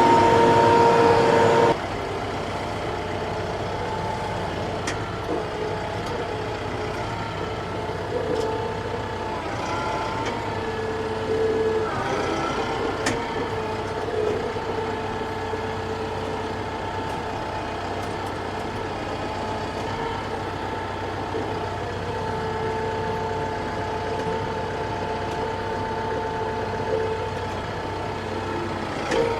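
TYM T654 tractor's diesel engine running steadily, with a constant whine over the engine note. It is louder for the first second or two, then drops to a lower steady level.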